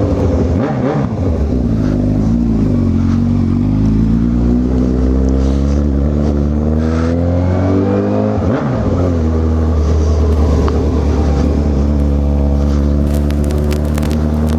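Honda CB1000R's inline-four engine under way. The revs ease off at first, then climb steadily for several seconds. About eight and a half seconds in they dip sharply and recover, as with a gear change, and the engine then runs fairly steadily with slowly rising revs.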